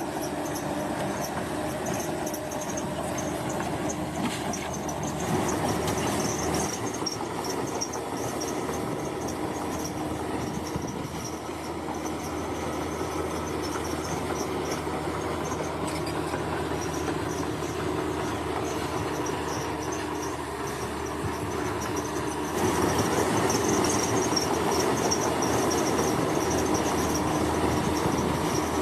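Crawler bulldozer at work: its diesel engine running under load while the steel tracks clank and rattle, growing louder about three-quarters of the way through.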